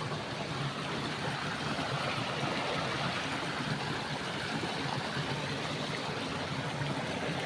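Shallow stream of clear water running steadily, with an even rushing and trickling sound.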